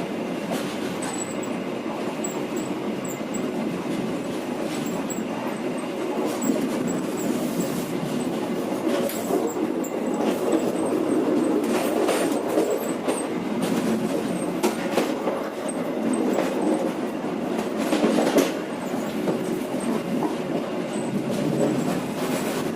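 KA Penataran passenger train running along the track, heard from on board: a steady rumble with irregular sharp clicks as the wheels pass over rail joints.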